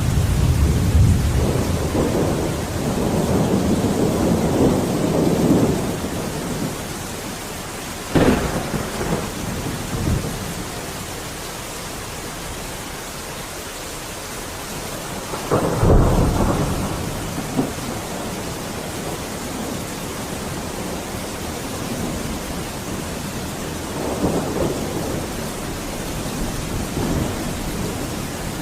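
Steady heavy rain with thunder: a long low rumble in the first few seconds, two sharp thunderclaps followed by rumbling, about a third and just over halfway in, and another softer rumble near the end.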